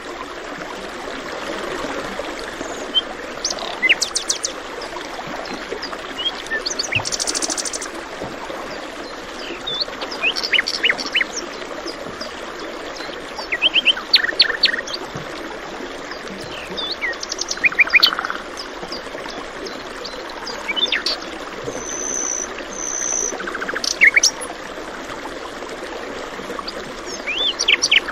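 Several songbirds chirping and trilling in short, repeated phrases over the steady rush of a stream.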